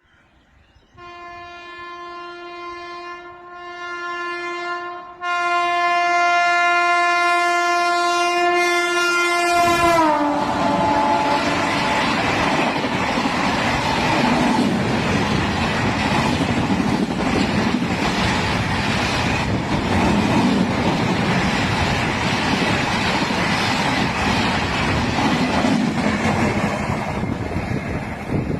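An Indian Railways express train's locomotive horn sounds one long continuous blast, growing louder about five seconds in. Its pitch drops as the locomotive passes at about ten seconds. The loud rushing clatter of the passing coaches on the rails follows.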